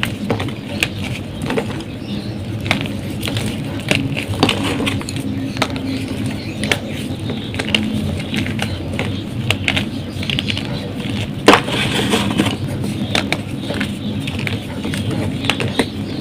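Blocks of gym chalk being crushed and crumbled: a dense run of dry crunching and crackling, with one loud sharp crack about eleven and a half seconds in.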